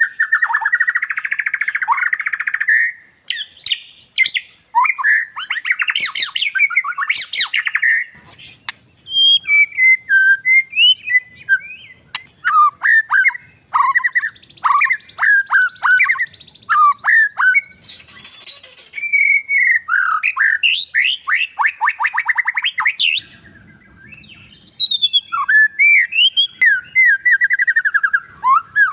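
Oriental magpie-robin (kacer) singing a loud, varied song of whistled notes, sweeping calls and rapid trills in quick phrases with short pauses, the full 'gacor' song used as a lure to set other kacer singing.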